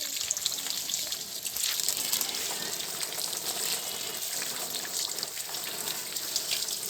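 Water running and splashing steadily, like a tap left on.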